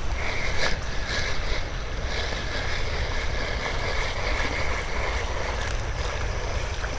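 Wind rumbling on the microphone over the splash and wash of creek water, with a steady high-pitched drone that stops about five seconds in.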